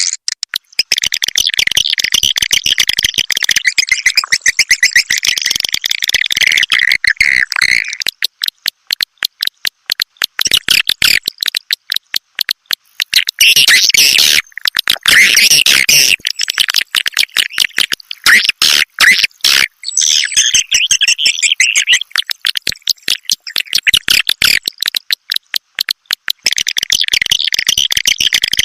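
Swiftlet lure call (edible-nest swiftlet sound used to draw birds into swiftlet houses): fast dry clicking runs throughout, broken by stretches of high, twittering chirps. The chirping stretches come in the first third, again around the middle, and near the end.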